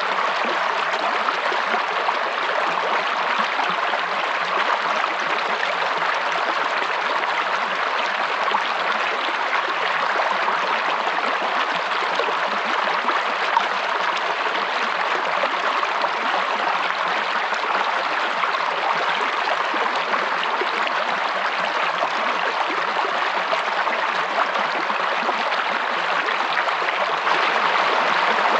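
A stream of water flowing, a steady, even rush that does not change.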